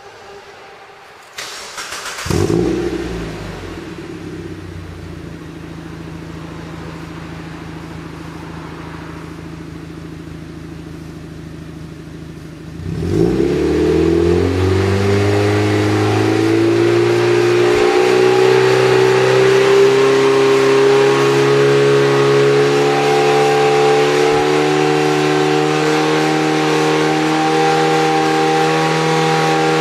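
Mazda Roadster NB8C's 1.8-litre four-cylinder engine breathing through a one-off stainless-steel exhaust with a 57.2 mm main pipe. It starts about two seconds in with a short flare, then idles steadily. About thirteen seconds in, the revs are raised and held, the note climbing slowly and then steadying at a louder, higher pitch.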